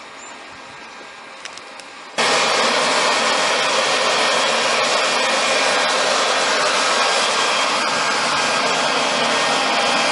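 Leaf blower switched on about two seconds in, then running steadily with a loud, even rush of air.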